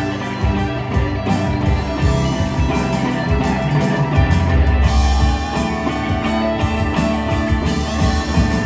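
Rock music playing: electric guitar with bass and drum kit, without singing.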